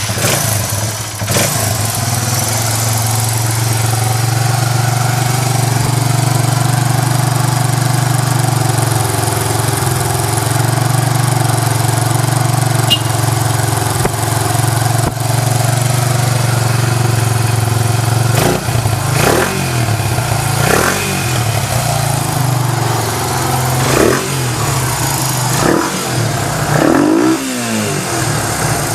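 Suzuki Goose 250's single-cylinder four-stroke engine idling steadily through its exhaust just after starting. From about two-thirds of the way in the throttle is blipped several times, each rev rising and falling back to idle.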